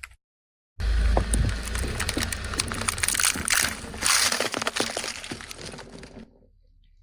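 A car tyre rolling onto and crushing an object: a dense run of crackling and snapping with a low rumble at its start, beginning about a second in, then thinning out and fading away near the end.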